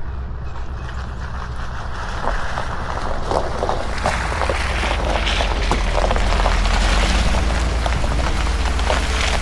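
Rainstorm: rain crackling and pattering over a deep rumble that swells about two seconds in and stays loud.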